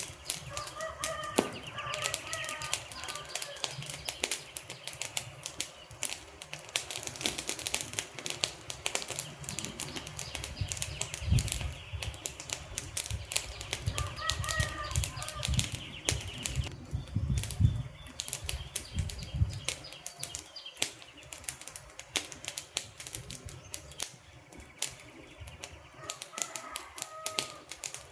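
Wood fire crackling, with a dense run of irregular sharp pops and snaps and a low rumble of the flames swelling through the middle. A faint short call sounds three times, near the start, midway and near the end.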